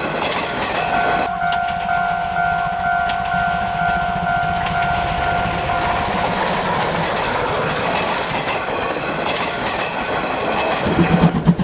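C12 66 steam tank locomotive running with its train, a continuous rumble and clatter. A steady tone sounds alongside it for about five seconds, from about a second in.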